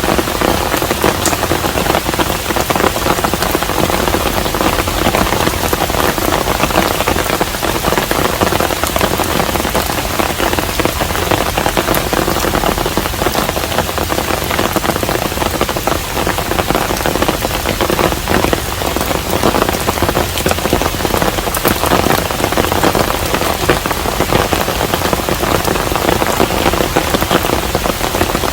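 Steady rain falling on and around a traditional Korean hanok house: a dense, even patter of drops that holds constant throughout.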